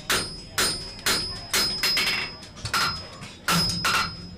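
Blacksmith's hammer striking hot steel on an anvil, about two blows a second, each with a short metallic ring from the anvil.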